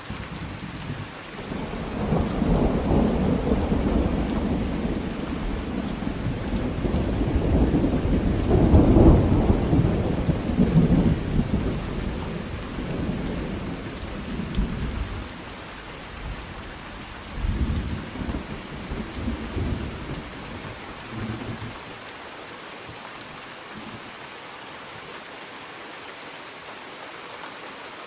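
Thunderstorm: steady rain falling, with a long rolling peal of thunder that builds from about two seconds in, peaks near nine seconds and fades out, followed by a few shorter low rumbles.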